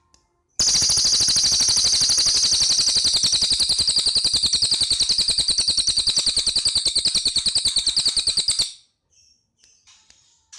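Cililin bird giving a loud, rapid machine-gun rattle of about a dozen notes a second, starting abruptly about half a second in and lasting some eight seconds before cutting off, followed by a few faint short chirps.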